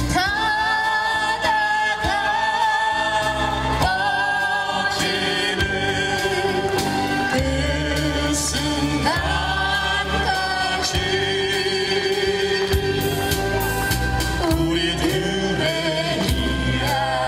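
A vocalist singing a song with instrumental accompaniment, holding long notes with vibrato over a steady bass line.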